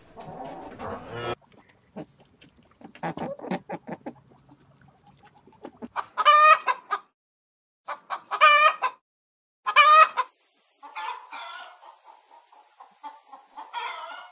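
Chickens clucking, broken up by three loud calls about two seconds apart in the middle.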